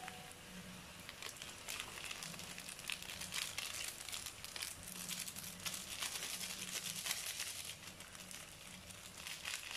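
Fried garlic and Maggi curry seasoning sizzling in hot oil in a wok: a dense, steady crackle of fine pops.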